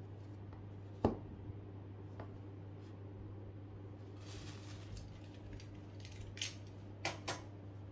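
Gloved hands handling a plastic webcam and its cable and setting them down on a cutting mat: a sharp plastic click about a second in, a short rustle around the middle, and a few light clicks near the end, over a low steady hum.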